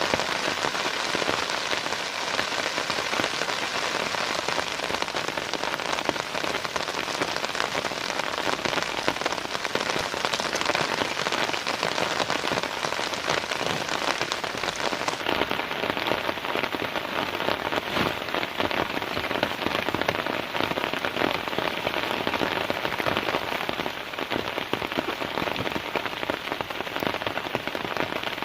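Heavy rain falling steadily, a dense even wash of countless drops. About halfway through the sound turns duller as its highest hiss drops away.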